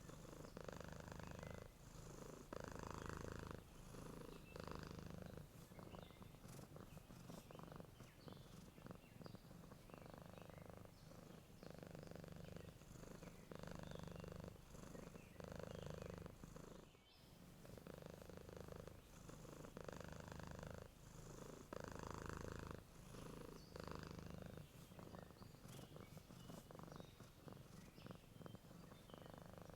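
Domestic cat purring softly while asleep, the purr swelling and fading with each breath, about once every two seconds.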